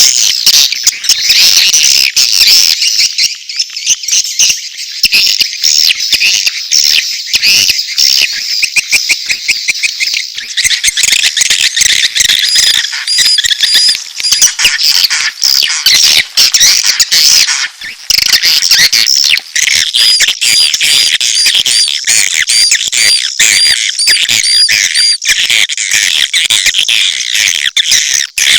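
Recorded swiftlet calls: a dense, loud chatter of high twittering chirps. From about ten seconds in it turns into quick, evenly repeated rising-and-falling chirps. This is a swiftlet lure track of courtship and chick calls, played to attract swiftlets to nest.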